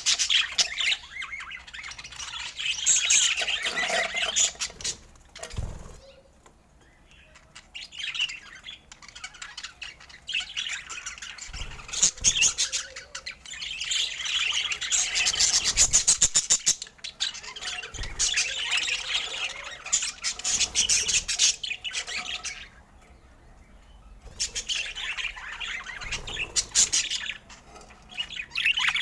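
Budgerigars chirping and chattering in busy bursts, with two short lulls, one about six seconds in and another past twenty seconds. A quick run of fine ticking comes in the middle.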